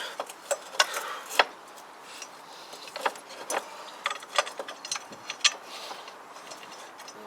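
Irregular metal clicks, clinks and knocks as engine mounting bolts and hardware are worked into a motorcycle frame by hand.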